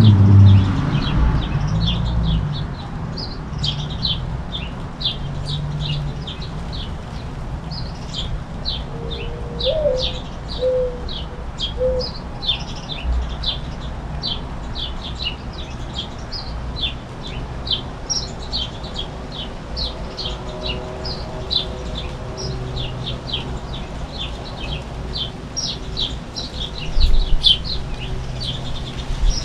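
Small birds chirping, two or three short high chirps a second, over a steady hiss of rain. A brief low rumble comes near the end.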